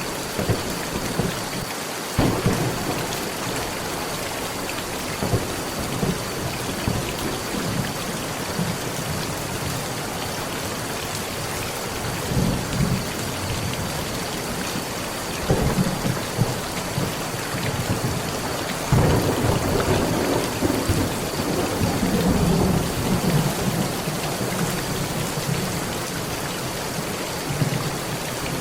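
Steady heavy rain pattering on a metal roof, with low rolls of thunder several times; the longest roll begins about two-thirds of the way through and rumbles on for several seconds.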